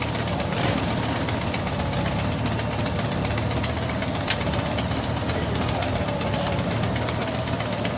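Motorcycle engine running steadily at an even speed, with a single light click about four seconds in.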